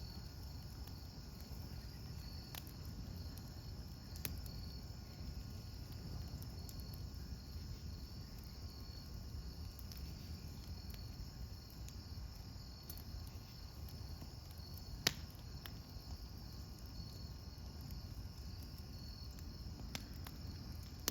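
Campfire burning with a low rumble and a few sharp pops, the loudest about fifteen seconds in, over the steady chirping of crickets.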